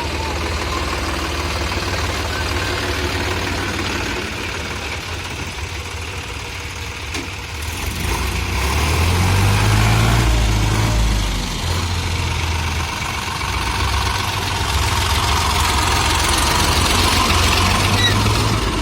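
Heavy diesel machinery engine running, working harder and louder about eight seconds in, easing off, then building again near the end.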